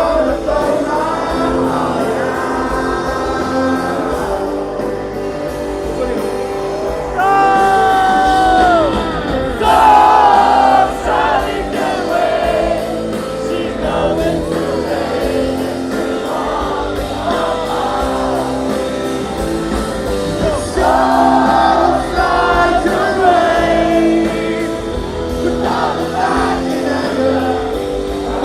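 Live rock band performing with sung vocals, heard in a large hall.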